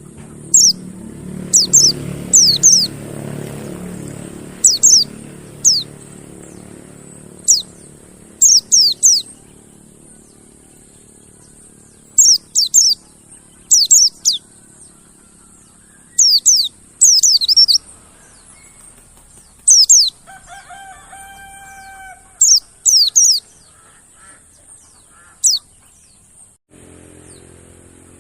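Pleci monty (white-eye) giving sharp, high, downward-sweeping chirps in quick clusters of two to four, repeated every second or two: a lure call for caged white-eyes. A lower, steadier bird call sounds about two-thirds of the way through.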